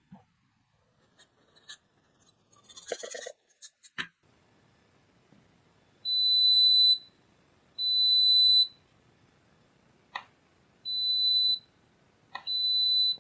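Multimeter continuity tester beeping: a steady high tone about a second long, four times, each time a newly soldered tactile switch is pressed and closes the circuit, showing the switch works. Small clicks and handling noises come before the beeps.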